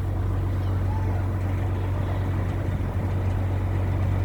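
A boat's engine running steadily under way, a low even hum with no change in pace.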